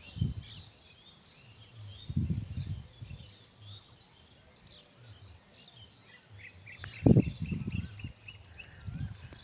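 Birds chirping and twittering throughout, with three short bursts of low rumble, about two seconds in, around seven seconds in and near the end, which are the loudest sounds.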